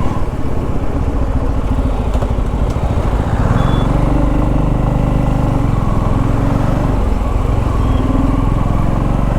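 Motorcycle engine running steadily as the bike is ridden, its note rising and falling a little.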